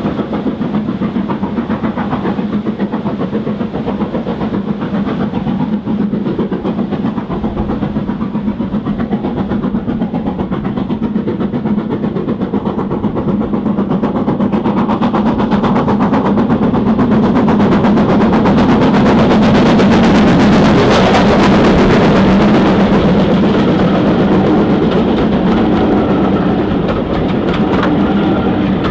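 A steam-hauled train passing, with its running noise and rhythmic beats growing louder to a peak about two-thirds of the way through, then easing slightly.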